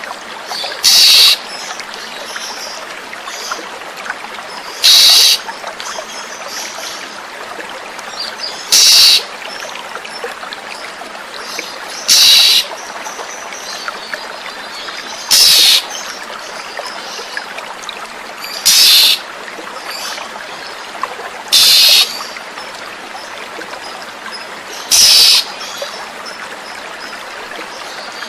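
Oriental magpie-robin (kacer) giving a short, harsh, rasping call eight times, about every three to four seconds, over steady trickling running water.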